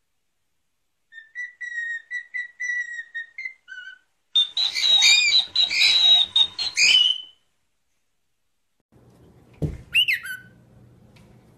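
Cockatiel whistling a short run of notes, then a louder burst of chattering squawks. After a pause, two quick falling chirps over a low hum.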